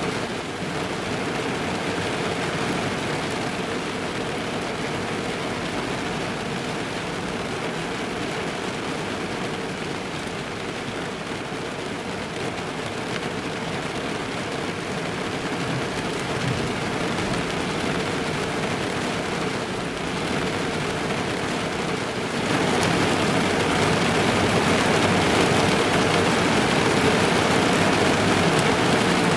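Steady rain drumming on a car's roof and windows, heard from inside the car. About three-quarters of the way through it suddenly gets louder and stays heavier.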